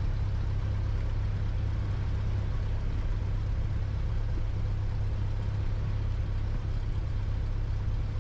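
Cessna 172's piston engine running steadily at low power while the plane taxis after landing.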